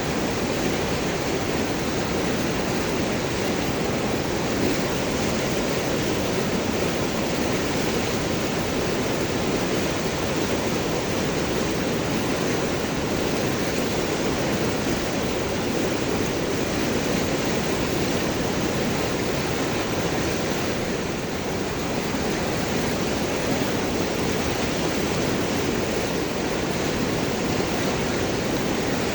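River water rushing and gurgling over and around large rocks, a steady full noise with no pauses.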